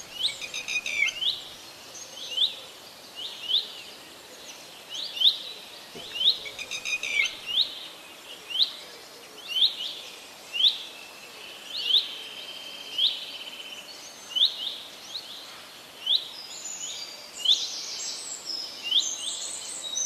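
A bird calling outdoors: short, sharp rising chirps repeated about once a second, sometimes in quick pairs or runs. Near the end, a denser, hissier chirping joins in.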